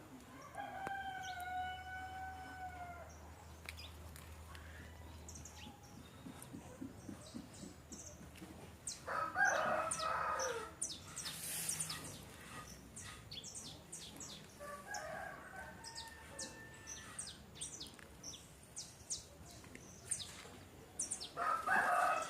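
A rooster crowing several times: one long drawn-out crow about a second in, then shorter crows spaced several seconds apart, with small birds chirping in between.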